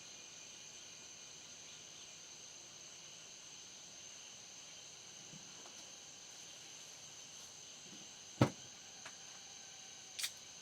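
Steady, high-pitched chirring of night insects, with a few sharp clicks or knocks: one loud one about eight seconds in and two more near the end.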